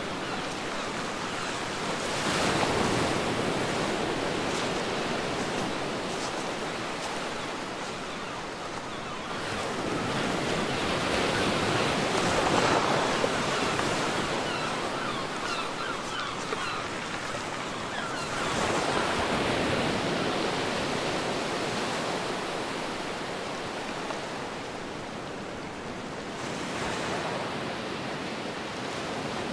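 Ocean surf breaking and washing up a beach, the rush of water swelling and fading every seven to ten seconds.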